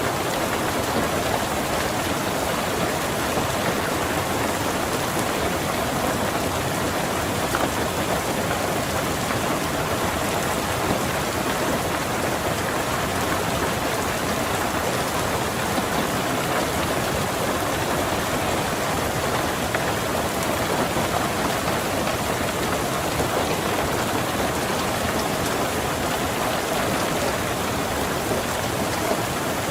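Steady rain falling on a car's roof and windows: an even, unbroken patter with no change in strength.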